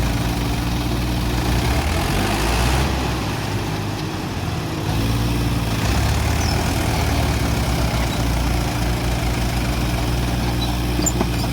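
Tractor diesel engine running on a steep slope. Its note eases for a moment around four seconds in, then picks up again.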